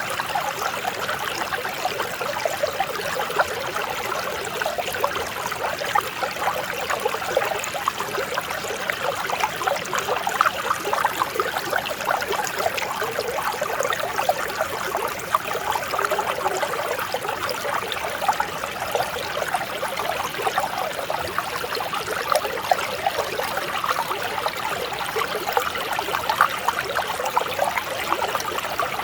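Mountain stream flowing over rocks, a steady close babble of small splashes and trickles.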